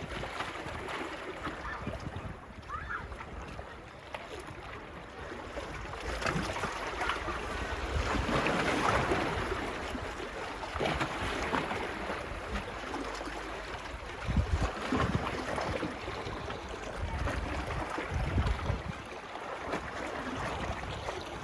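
Small waves washing onto a beach, rising and falling every few seconds, with gusts of wind buffeting the microphone.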